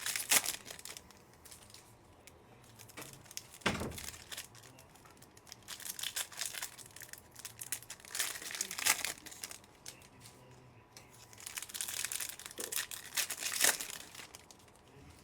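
Foil trading-card pack wrappers being torn open and crinkled by hand, in three bursts, with a dull thump about four seconds in.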